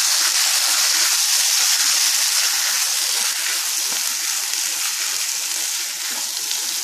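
Boiled mash (urad dal) sizzling in oil in a kadai as it is stirred with a spatula: a steady hiss that eases slightly toward the end, the sign of its leftover water cooking off.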